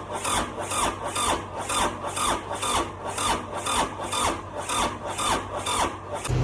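Kubota diesel tractor engine cranking slowly on its starter, in a labored rhythmic chug of about two to three strokes a second, without catching; it stops just before the end. The slow cranking is the sign of a weak battery.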